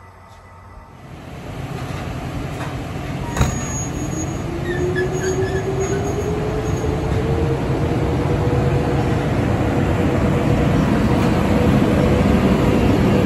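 PKP Intercity electric locomotive and its passenger carriages running past close by, the rumble of wheels on rail growing louder. An electric whine rises in pitch and then holds steady. There is a single sharp click about three and a half seconds in, and a few faint brief squeals.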